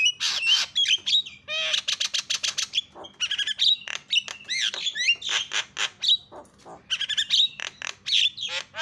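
Javan myna song: a noisy, varied stream of gliding whistles, sharp clicks and a harsh rasping rattle about two seconds in.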